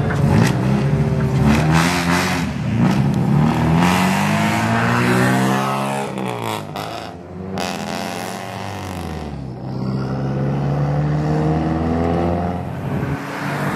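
Engines and exhausts of modified, lowered cars pulling away slowly one after another, revving up and easing off. About six seconds in one engine's pitch falls away and the sound drops, then another engine comes up with a steadier note.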